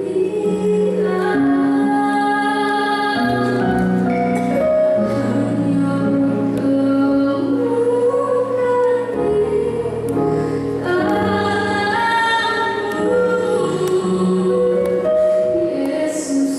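A woman singing a slow song over musical accompaniment, with long held notes.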